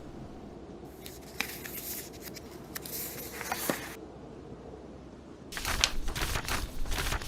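Pages of a book being turned, a papery rustle with small crisp clicks, twice, the second turn louder. Under it a steady low rush of blizzard wind and fire.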